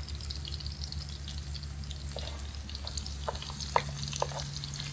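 Jackfruit pieces frying in hot oil in a pan: a light crackling sizzle with a few sharper pops about three to four seconds in, over a low steady hum.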